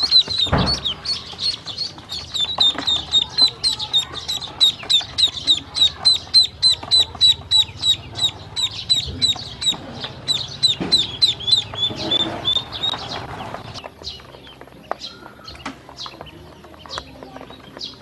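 Baby ducklings peeping in a rapid, steady train of high chirps, about four a second. There is a thump about half a second in. Near the end the peeping stops, leaving scattered soft clicks.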